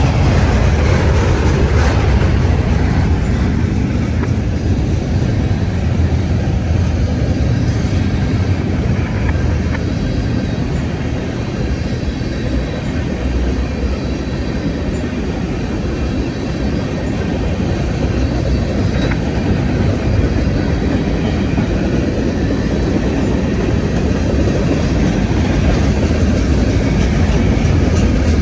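Heavy freight train rolling past close by: a steady loud rumble of railcar wheels on the rails that eases a little midway and builds again near the end.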